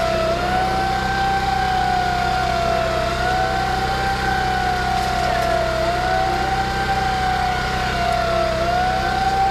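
A siren wailing in a repeating falling pattern: each tone slides slowly down for about three seconds, then jumps back up, over a steady low engine hum.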